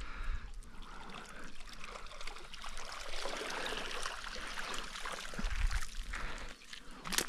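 Water trickling and splashing as a yabby pot is hauled out of the water and drains, with small clicks and rustling, and a sharp knock near the end.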